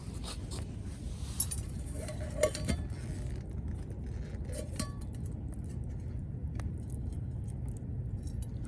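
A few light metallic clinks of a small metal cooking pot and lid, over a steady low rumble.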